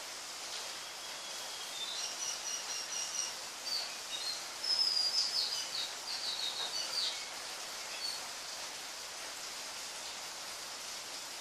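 Bird chirping in quick runs of short, high notes for several seconds in the middle, over a steady background hiss.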